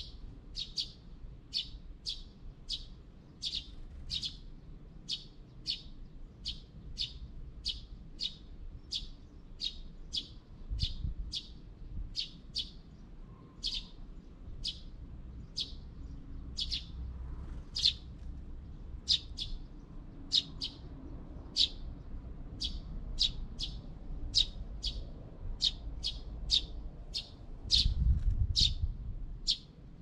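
A small bird repeating a short, high chirp about twice a second, steadily and without a break. A low rumble comes in briefly near the middle and more loudly near the end.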